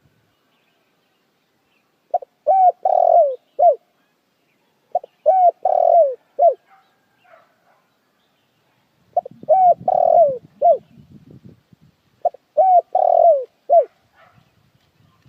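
Puter dekukur dove cooing: four phrases about three seconds apart, each of short coos around a long, falling coo.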